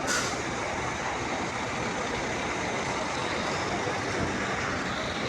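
Steady road traffic noise, with one brief sharp sound right at the start.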